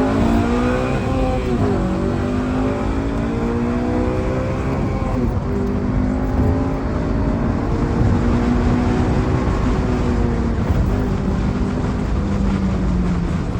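Car engine running under way, with steady road rumble; its pitch dips and climbs again a couple of times, as with gear changes or easing off the throttle.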